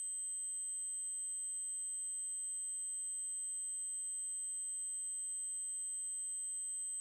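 Electronically generated 8192 Hz triangle-wave tone, a steady high-pitched whine held unchanged at one pitch.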